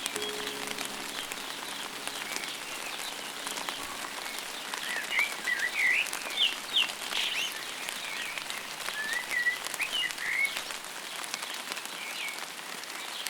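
Steady light rain pattering, with a songbird giving a run of short chirps and whistles in the middle.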